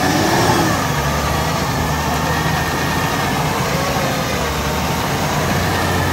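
Off-road 4x4 engine running steadily during a winch recovery, a low even drone with no change in pitch.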